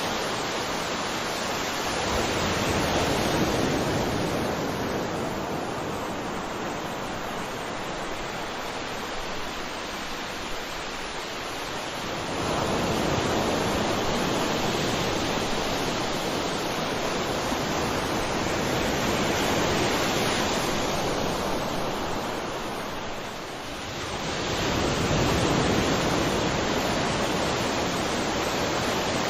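Sea waves washing onto a shore in a steady rush of surf, swelling with a new wave about every ten to twelve seconds.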